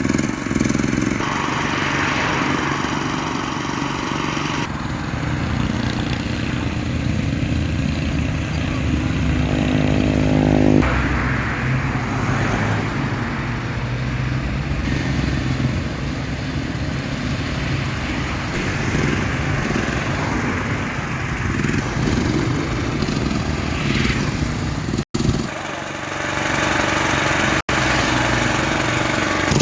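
Engine noise running steadily throughout, with brief drop-outs twice near the end.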